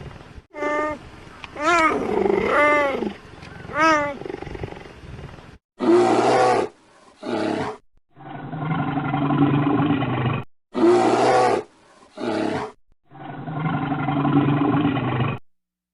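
Animal calls. First a run of short cries that bend up and down in pitch, then twice over a pair of short calls followed by a longer held call.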